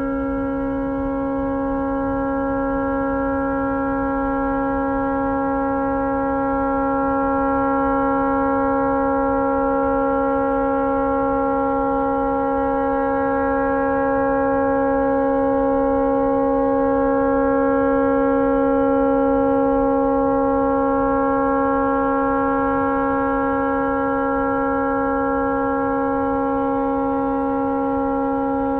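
A tugboat's air horn stuck on, sounding one continuous chord at a steady pitch with no break, heard from a distance. It is blowing non-stop because the horn malfunctioned and could not be shut off.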